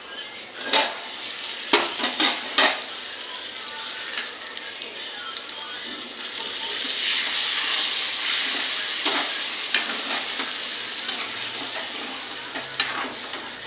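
Food sizzling in hot oil in a pan, the hiss swelling in the middle. A metal utensil knocks against the pan several times while the food is stirred or turned.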